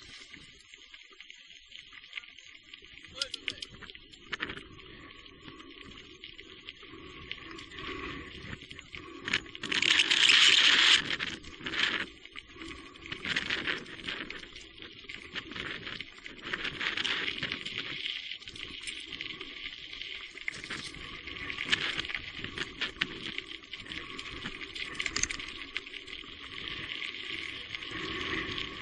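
Crackling, pattering riding noise from an e-bike on a rain-soaked trail, with many small clicks and a louder rush about ten seconds in.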